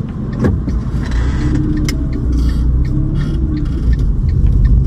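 Steady low rumble of a car heard from inside the cabin, with a few small clicks, growing slightly louder toward the end.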